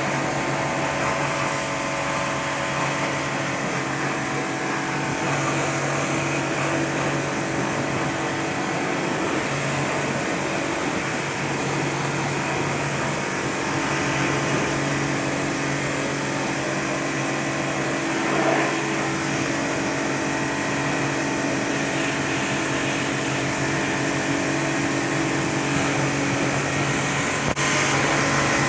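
Pressure washer running steadily: a motor-and-pump hum under the hiss of the spray, with a sharp click about a second before the end.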